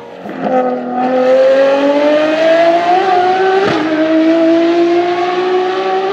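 Ferrari FXX K's 6.3-litre V12 accelerating hard, its note rising steadily in pitch. About three and a half seconds in the pitch drops suddenly with a sharp crack, as at an upshift, then climbs again.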